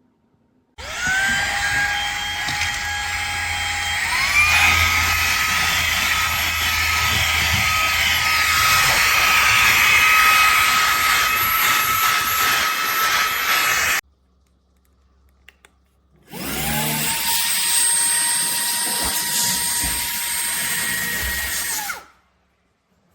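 Fanttik Slim V8 Apex handheld vacuum running: the motor spins up with a rising whine, jumps to a higher pitch about four seconds in, then switches off. After a short gap it runs again at a lower pitch for about six seconds and stops.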